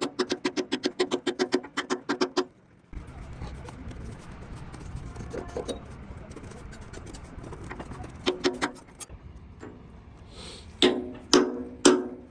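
Fast run of sharp metal strikes, about eight a second, each with the same ringing tone. It stops after about two and a half seconds and leaves a low steady background noise. A few more strikes come later, with three loud ringing ones near the end.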